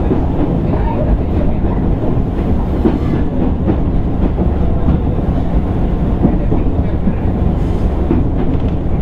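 Running noise inside a JR East 205 series 600 subseries electric motor car: a steady rumble of wheels on rail and motor and gear noise, with some clickety-clack of the rail joints.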